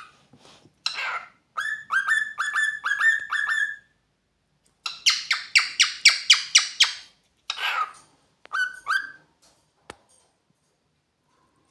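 Cockatiel calling in quick runs of short notes: first a run of clear whistled notes, then a harsher run of chirps, then a few more notes, with a single click about ten seconds in.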